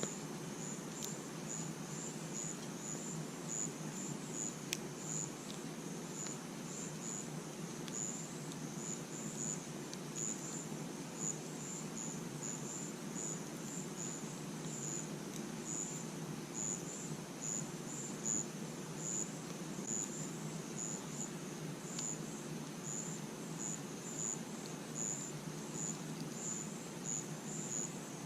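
Crickets chirping steadily, a short high chirp about two to three times a second, over the low steady hiss of a campfire with a few faint crackling pops.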